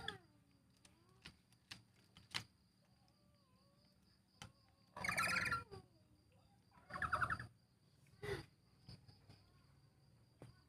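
Parrots (nuri, lories) calling: two loud squawks about five and seven seconds in and a shorter one a second later, with soft clicks and faint whistles between.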